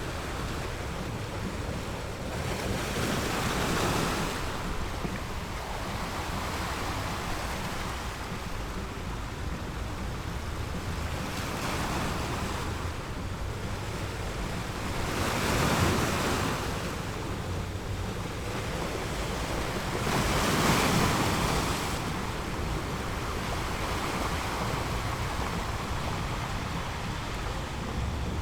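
Ocean surf: a steady rush of waves with about four louder surges as waves break and wash in.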